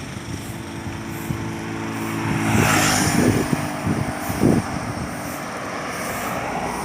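Sea waves surging onto the beach with wind buffeting the microphone. For the first few seconds a steady engine drone sounds underneath, with a wave washing in about three seconds in.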